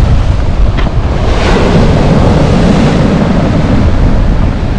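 Loud surf of a stormy sea breaking on the shore, with strong wind buffeting the microphone in a low, steady rumble.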